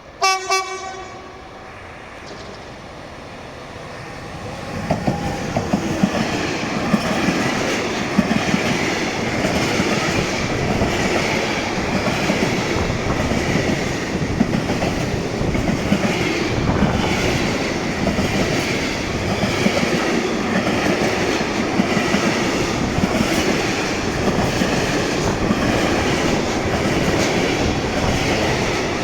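A locomotive horn sounds one short blast, then a freight train passes, a steady rumble with the wheels clattering rhythmically over the rail joints.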